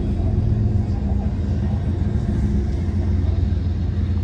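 Steady low rumble of a heavy vehicle running.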